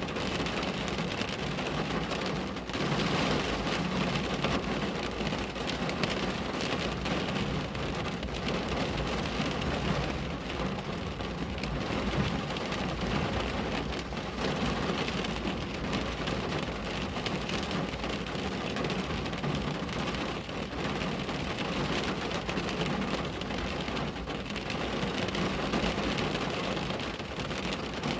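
Steady rain falling on a window: an even hiss peppered with many small drop taps, holding level throughout.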